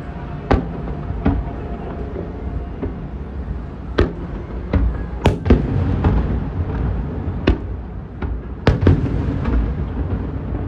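Fireworks bursting: about a dozen sharp bangs over ten seconds, some in quick pairs, over a steady low rumble, with music faintly underneath.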